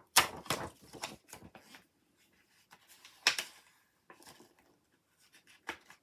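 Light clicks, taps and rubbing from handling a clear stamp on its block and the card while lining it up. The sharpest tap comes about three seconds in.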